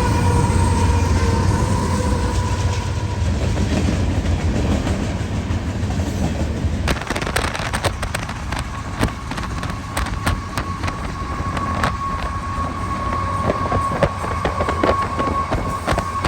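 Passing train: a horn note fades out in the first few seconds over the low rumble of the locomotive, then, about seven seconds in, the wheels start clicking over rail joints, with a thin steady squeal above them.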